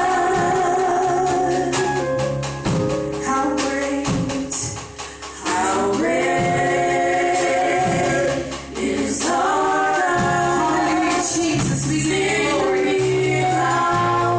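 Gospel worship music: voices singing together over instrumental accompaniment, with quick percussive hits, densest in the first half.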